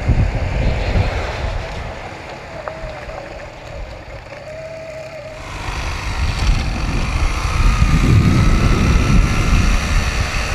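Riding sounds of a 1982 Honda CM250T twin-cylinder motorcycle: the engine runs under wind noise on the microphone. It eases off for a few seconds, then builds louder again from about the middle.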